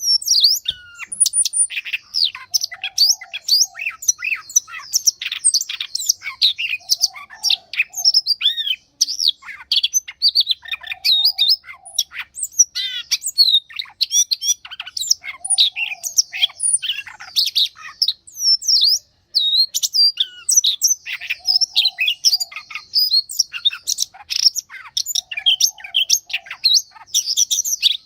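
Songbirds singing, with rapid, overlapping high chirps and whistled sweeps throughout. A lower, softer call repeats every three to four seconds beneath them.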